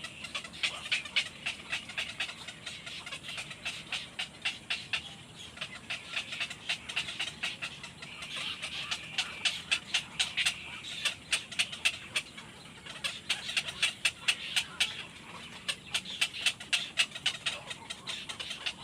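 Baby birds cheeping over and over, many short high-pitched calls a second.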